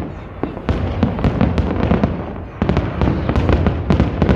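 Fireworks display: a rapid run of bangs and crackling reports, several a second. There is a brief lull about two seconds in, then the bangs come thick again.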